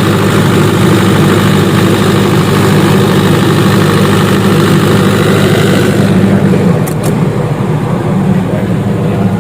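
Engine of a 30 kVA generator set running steadily at constant speed, a fixed engine drone. About six and a half seconds in, the sound turns duller and two sharp clicks are heard.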